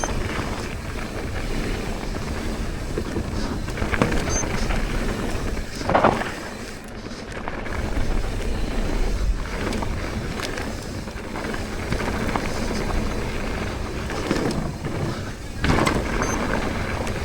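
Wind rushing over the microphone and the rattle and tyre noise of a mountain bike riding a dirt trail. A few sharp knocks cut through, the loudest about six seconds in, others about four seconds in and near the end.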